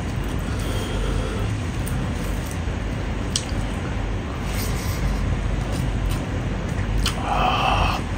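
Close-miked eating sounds: wet chewing and mouth clicks as a man eats rice and pork with his hand, over a steady low rumble. There is a short vocal sound from him near the end.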